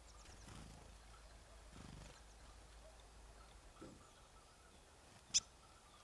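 Faint, brief high chirps from small birds early on, then a single sharp click about five seconds in, the loudest sound.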